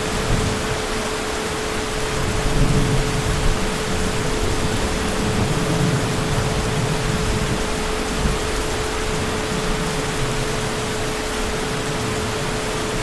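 Heavy rain falling steadily in a dense, even hiss, with a low rumble of distant thunder swelling about two to six seconds in. A steady thin tone hums underneath.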